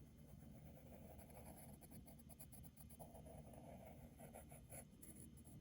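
Faint scratching of a pencil stroking on paper, with irregular light strokes, over quiet room tone.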